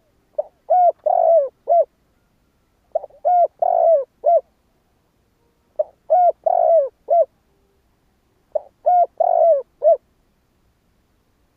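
Spotted dove cooing. Four phrases come about every three seconds, each a short lead-in note followed by a few coos with a longer one in the middle. This is the male's call used as a decoy to draw in wild spotted doves.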